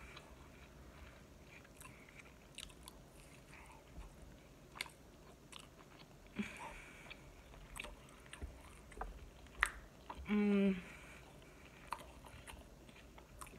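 Close-up chewing and biting of chicken kabob, with scattered small mouth clicks. About ten seconds in comes a short hummed "mm", the loudest sound.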